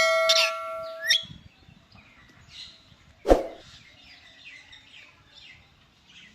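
Indian ringneck parrot calling: a loud, steady whistled note during the first second that ends in a quick rising squeak, a short loud sound about three seconds in, and soft chirps the rest of the time.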